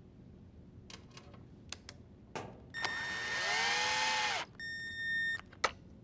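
Drill driver with a nut driver bit driving in a sheet-metal screw: a few light clicks as the bit is set on the screw, then the motor spins up, runs for about a second and a half and winds down, followed by a shorter steady run and a sharp click near the end.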